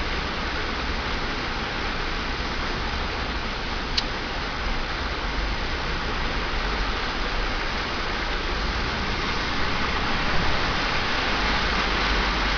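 Steady wet rushing hiss with a low rumble underneath, from a vehicle riding a storm-soaked road. A single sharp click about four seconds in.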